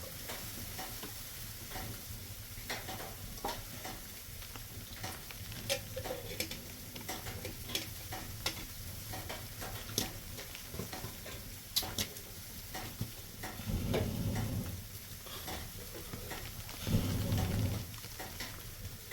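Irregular light crackling and clicking over a low steady hum, with two short muffled low rumbles in the last third.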